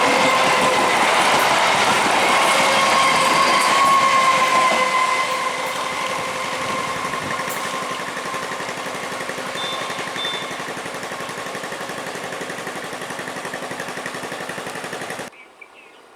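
Electric multiple unit (EMU) train running past, its wheels clattering fast over the rail joints. A steady whine sounds over the noise for the first five seconds, then the train grows quieter as it moves away. The sound cuts off abruptly near the end.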